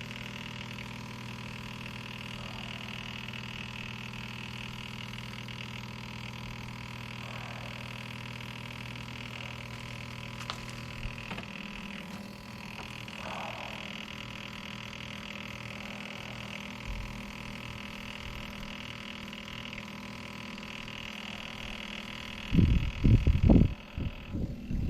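Electric fuel pump, powered from a battery charger, running steadily with a hum as it pumps gasoline out of a scooter's tank into a jug; the hum's low note shifts about halfway through. Near the end come several loud, low thumps.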